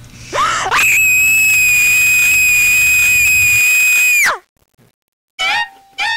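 A shrill, high-pitched scream that swoops up and is held at one pitch for about three and a half seconds, then cuts off abruptly. Short musical notes begin near the end.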